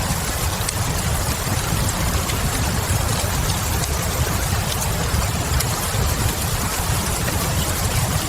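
Steady rain falling, with a low rumble underneath and occasional faint crackles of a wood fire.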